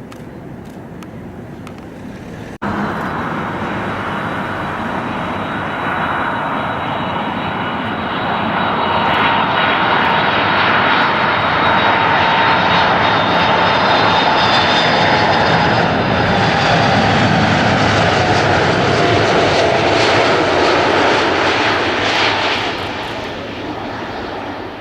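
Airliner's engines passing close by: a loud rushing roar that jumps up about two and a half seconds in, swells and then fades near the end, with a whine that slowly falls in pitch as the aircraft goes past.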